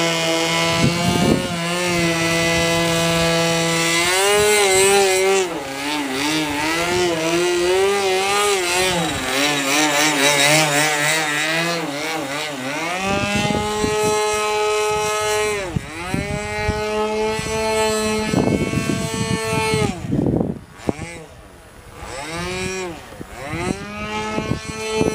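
Model airplane's .46-size two-stroke glow engine running at high revs with a buzzing propeller. Its pitch holds steady at first, then wavers, and in the second half it repeatedly dips sharply and climbs back as the plane manoeuvres.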